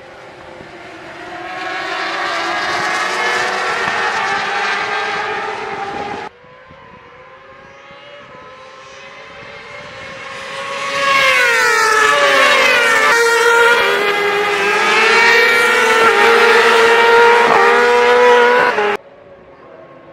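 Racing motorcycle engines at high revs, their pitch gliding and dropping sharply about twelve seconds in as they shift down. The sound comes in two passages that start and stop abruptly, about six seconds in and again near the end.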